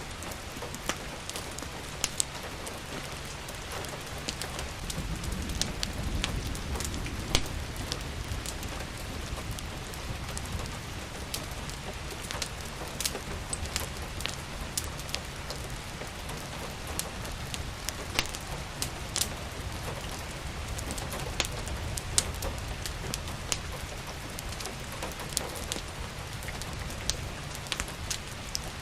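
Steady rain mixed with a crackling wood fire: sharp, irregular pops and clicks over an even hiss and a low rumble.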